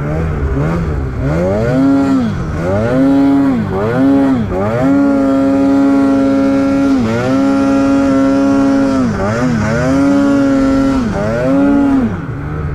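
Snowmobile engine revving up and down repeatedly under throttle. Its pitch rises and falls several times and is held high for a few seconds in the middle.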